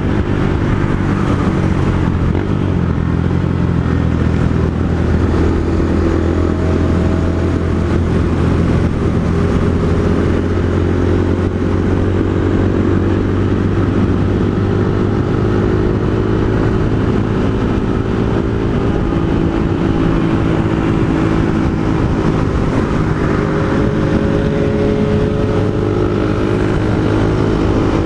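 Honda Fan 160's single-cylinder engine running through an aftermarket Pro Tork GP Competition exhaust while riding, holding a fairly even speed with slow rises and falls in pitch.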